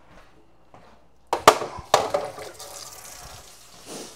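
A couple of hard knocks as items are set down in a kitchen sink, then water running steadily from the tap.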